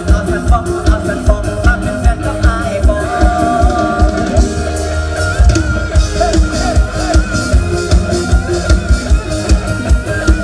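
Live luk thung–mor lam band music: a steady kick-drum beat of about three strokes a second under a wavering melody line.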